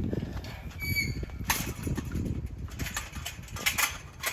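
Rustling and knocking from someone walking and moving things about, with a low rumble on the microphone and a short high squeak about a second in.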